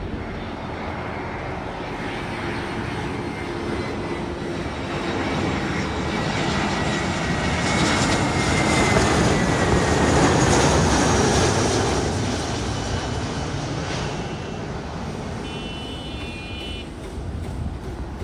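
Airbus A320 jet airliner passing on its landing approach: engine noise swells to its loudest about ten seconds in and then fades away, with a thin whine that falls in pitch as the aircraft goes by.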